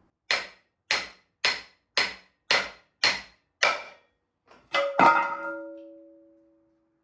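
Seven hammer blows on metal, about half a second apart, knocking a stuck part loose on an engine block. After a short pause come two harder metal hits, the last one leaving a ringing tone that dies away over about two seconds.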